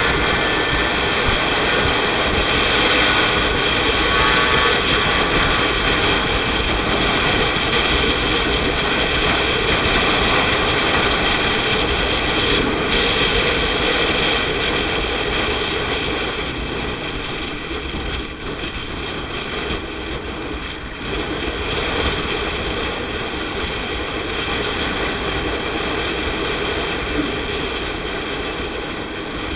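Motorcycle on the move: steady engine sound mixed with wind rushing over the rider's camera microphone, easing off slightly a little past halfway, then picking up again.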